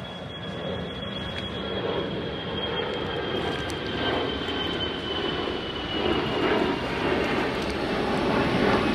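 Jet airliner passing overhead: a steady rushing engine noise that grows louder, with a thin high whine slowly falling in pitch.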